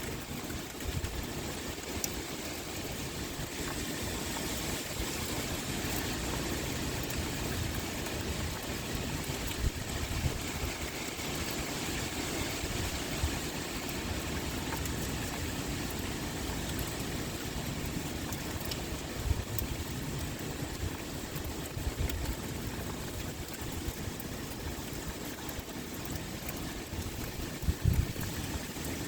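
Steady pouring rain, an even hiss with scattered faint drop ticks, over an uneven low rumble of wind. A short louder low rumble comes near the end.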